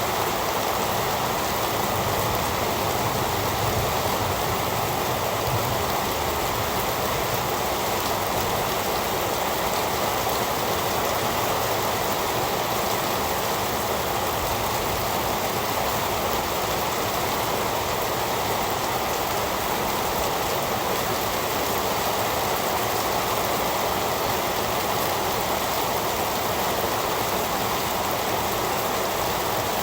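Heavy rain falling steadily, an even, unchanging hiss with no thunder.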